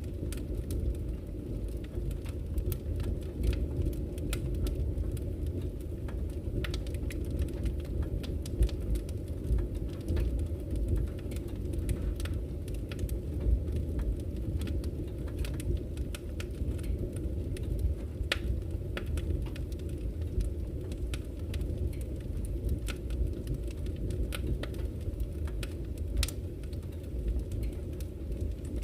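Campfire crackling, with frequent sharp snaps and pops, over the steady low rush of a flowing river.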